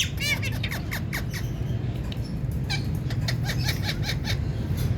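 Ringneck parakeet chirping: a quick run of short falling chirps right at the start, then scattered short chirps and clicks about halfway through, over a steady low hum.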